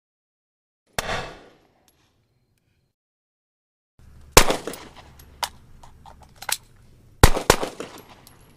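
Handgun drill sounds: one sharp bang about a second in, then after a pause several sharp cracks and clicks, the loudest about four and a half and seven seconds in.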